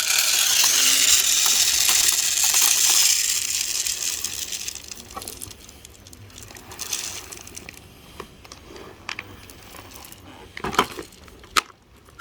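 Bird seed being poured into a feeder: a dense rattling hiss of seeds for about four seconds that tails off, then a few scattered clicks and taps, the sharpest near the end.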